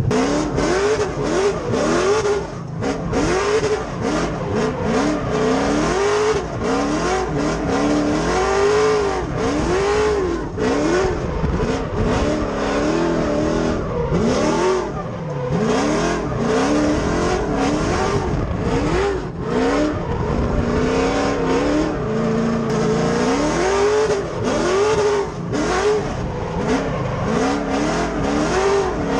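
The 6.0-litre LQ9 V8 swapped into a 1992 Nissan 240SX drift car, revving up and down over and over while drifting, each rise and fall taking a second or two, with many brief sharp breaks in the sound.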